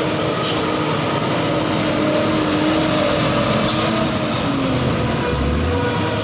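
Heavily loaded dump truck's diesel engine running steadily as it passes, its pitch slowly falling from about halfway through.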